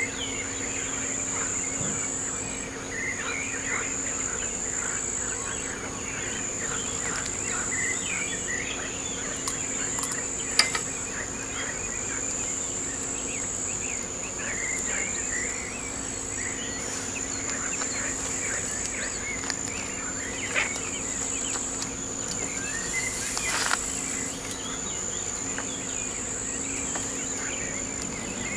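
Insects trilling steadily at a high pitch, with many short bird chirps over them and a faint low hum beneath. A couple of sharp clicks come about ten seconds in and again near the end.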